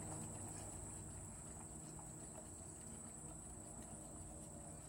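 Faint, scattered wet clicks of a dog licking gravy from his food bowl, over a steady high-pitched tone.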